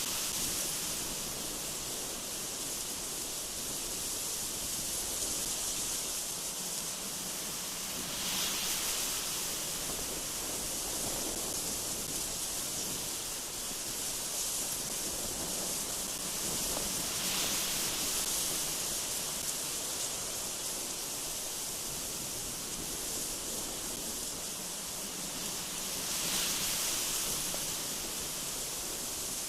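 Strong gusty wind blowing through mountain trees: a steady hiss that swells in gusts about every nine seconds.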